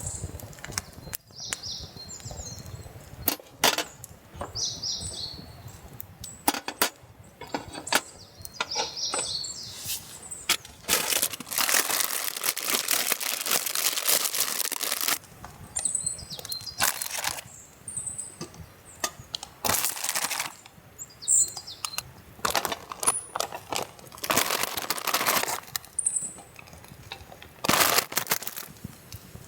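Repeated rustling bursts and sharp knocks of things being handled, with a few short, high bird chirps scattered through.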